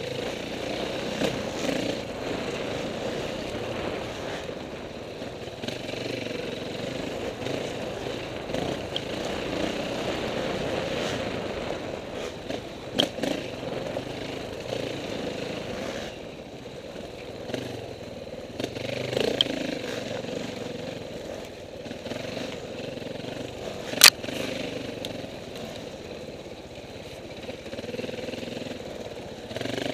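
Dirt bike engine running with the revs rising and falling unevenly, as when riding a trail. A few sharp knocks cut through, the loudest about three-quarters of the way in.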